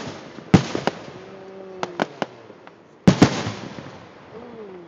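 Aerial fireworks exploding in a finale: a series of sharp bangs, the loudest about half a second in and again about three seconds in, each followed by a rumbling echo that dies away.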